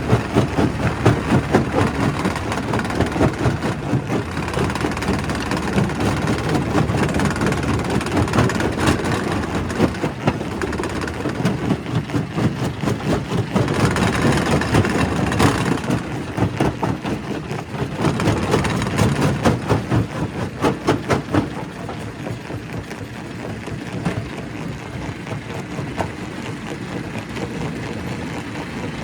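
Primary rock crusher running, with a steady low rumble under dense, irregular knocking and clattering of stone being broken. There is a harsher stretch about halfway through, and it eases off somewhat in the last several seconds.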